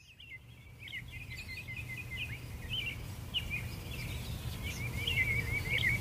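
Small birds chirping and twittering in quick runs of short notes, over a steady low outdoor rumble. The sound fades in from silence at the start and grows louder.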